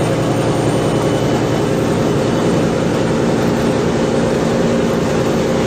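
Steady drone of an airplane's engines in flight, an even noise with several held low tones.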